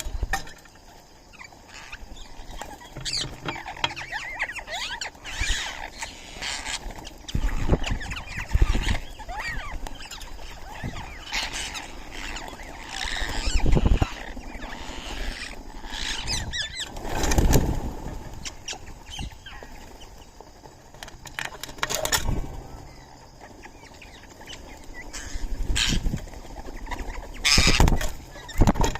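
Birds chirping and calling on and off, with several louder noises breaking in now and then.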